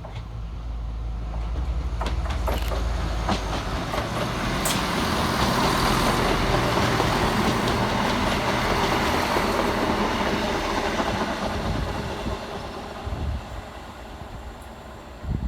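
ScotRail Class 170 Turbostar diesel multiple unit running into the station, its wheels clicking over rail joints as the rumble of the train builds, peaks and then fades away.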